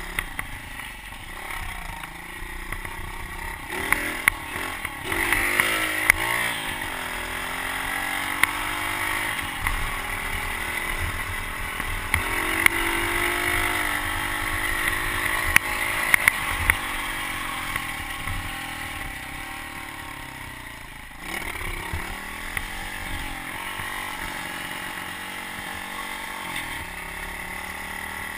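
Pit bike engine running under a rider, its revs rising and falling again and again, easing off and picking back up about three-quarters of the way through. Sharp knocks and clatters come now and then.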